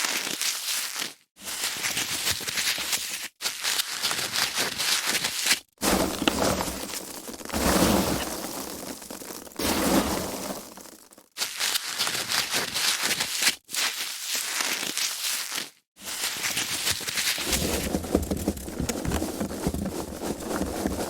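Foam packaging being handled: dense crackling, creaking and rubbing in a run of separate takes a few seconds long, each broken off by a brief silent gap.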